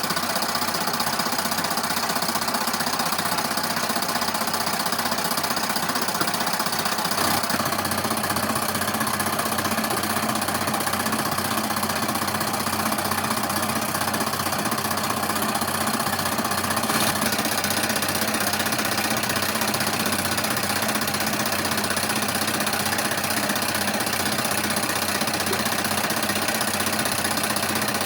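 Steady noise of running factory machinery, dense and mechanical, changing abruptly about 7 seconds in and again about 17 seconds in.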